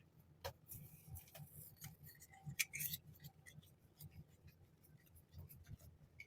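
Faint handling sounds of an unboxing: packaging rustling and crinkling with scattered light clicks and taps, loudest about half a second in and again around three seconds in.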